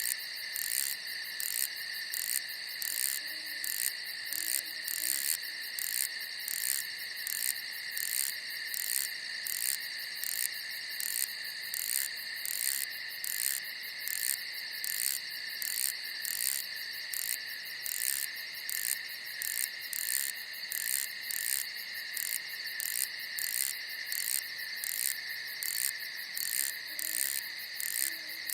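Night insects: crickets trilling steadily at a high pitch, with a second insect chirping in an even high-pitched rhythm about one and a half times a second. A faint low call comes twice, a few seconds in and near the end.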